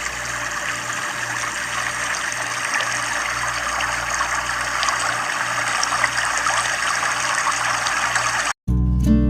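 Running water, a steady stream or trickle, with a faint low hum underneath. Guitar music cuts back in near the end.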